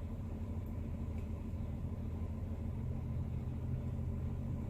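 Semi-truck's diesel engine idling with a steady low hum.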